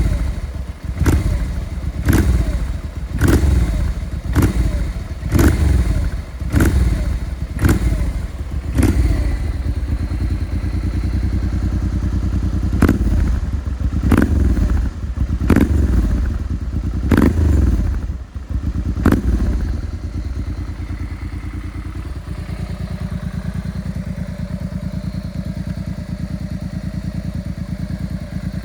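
Honda Bros 647 cc V-twin running through a homemade left-exit muffler with a reverse-cone perforated core, its throttle blipped sharply about once a second, then a few more spaced blips, before it settles into a steady idle for the last third. The exhaust note is crisp and clipped.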